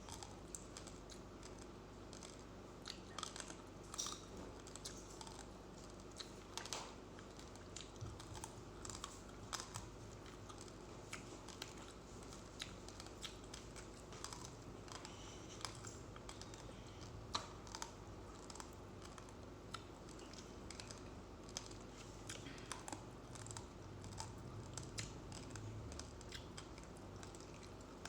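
Close-up chewing of uncooked rice grains: many small, sharp, irregular crunching clicks, several a second, as the hard grains are ground between the teeth.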